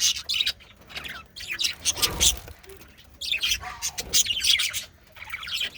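Male budgerigars chattering and warbling in rapid high chirps, in several bursts with short pauses between them.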